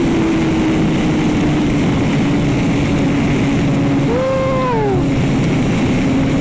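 Kawasaki ZX-10R sportbike at highway speed: heavy wind rushing over the camera microphone, with a steady engine note underneath that slowly drops in pitch. A short rising-and-falling whoop about four seconds in.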